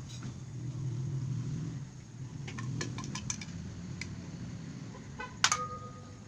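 Light metallic clinks and taps of tools and motorcycle fork parts being handled, the last one ringing briefly, over a low rumble that eases after about two seconds.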